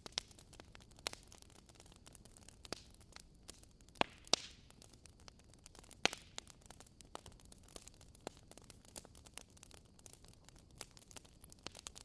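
Campfire burning: wood crackling with irregular sharp pops over a faint hiss, a few louder pops near the middle.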